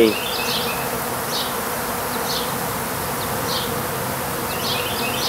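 Honey bees buzzing around an opened top-bar hive: a steady hum of many bees at once, with short high chirps every second or so over it.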